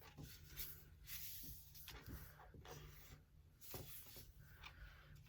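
Faint, intermittent rustling and creasing of a sheet of paper folded into a water bomb base, over a low steady hum.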